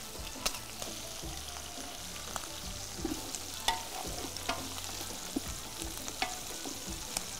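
Chopped onions frying in hot oil in a large aluminium pot, a steady sizzle being stirred, with scattered sharp pops and clicks; hamour pieces are frying in a pan beside it.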